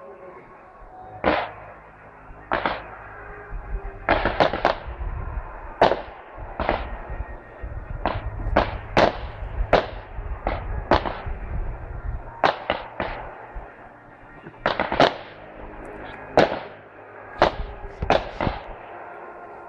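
A display of aerial fireworks going off: a rapid, irregular series of sharp bangs from shells bursting and being launched, some in quick clusters, over a low rumble that is heaviest in the middle.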